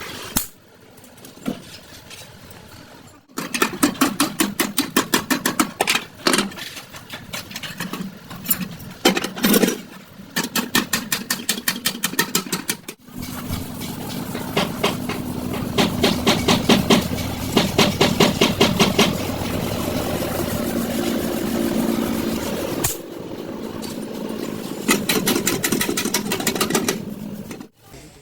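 Metalworking tool noise: rapid, evenly repeated strikes, about five or six a second, then a denser, steadier mechanical run, in several short segments cut together.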